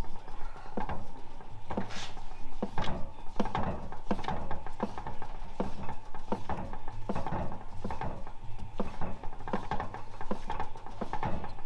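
Irregular clicks and clanks of hand tools and metal transmission parts being worked on and handled during a 4L65E automatic transmission teardown.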